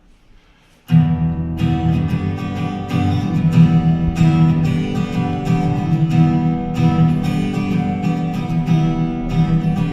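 Acoustic guitar strumming a song's introduction in an even rhythm, starting suddenly about a second in after a short quiet.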